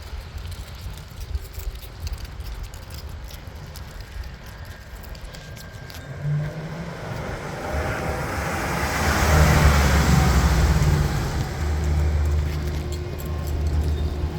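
Chevrolet plow truck's engine running. It grows louder about six seconds in and is loudest a few seconds later, with a rushing noise over the low engine rumble, then settles to a steady, fairly loud run.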